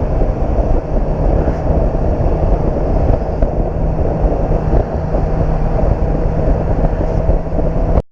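Motorcycle under way on the road: heavy wind noise on the microphone over the steady drone of the engine. The sound cuts off suddenly near the end.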